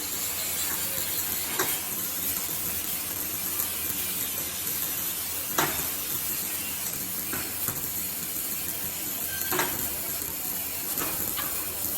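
Electric arc welding: a steady hiss with a few sharp crackles, about every four seconds.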